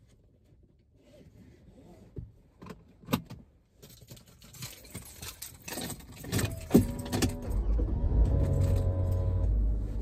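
Car keys jangling and clicking, then about seven seconds in the car's engine is started and runs with a steady low rumble.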